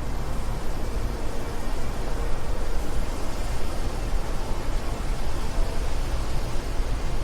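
Wind blowing in a steady rush, heaviest in the low end, with small uneven swells in loudness.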